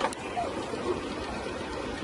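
Steady vehicle noise, the rumble and hiss of a car on the road as heard from inside, with a short click at the very start.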